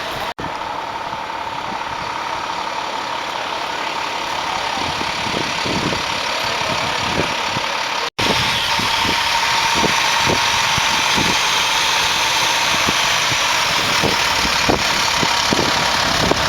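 Bell 412 helicopter's twin turbine engines and rotor running: a steady whine over a loud rushing noise, with uneven low thumps. The sound drops out briefly twice, near the start and about halfway through.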